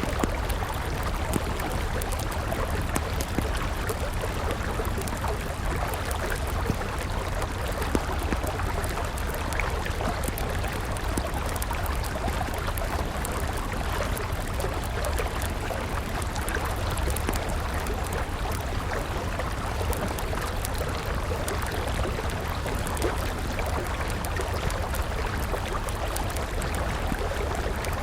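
A river flowing steadily, with a wood fire crackling: scattered small pops and snaps over the even rush of the water.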